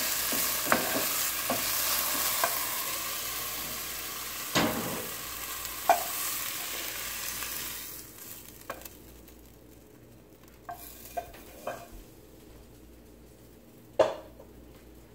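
Sliced okra sizzling in hot olive oil in a nonstick pan while a spatula stirs it, with light clicks and scrapes of the spatula. The sizzle dies away about halfway through as the okra is tipped out onto a plate, followed by a few soft clicks and one louder knock near the end.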